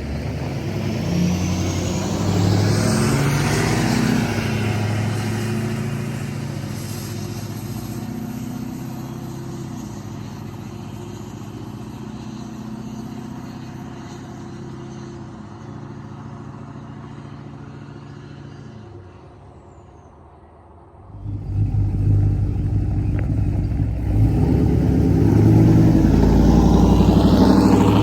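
Loud V8 pickup-truck exhaust: the engine swells to a peak a few seconds in with a rising whine, then slowly dies away. About three-quarters of the way through it gives way abruptly to a louder, deep, pulsing engine sound that builds again near the end.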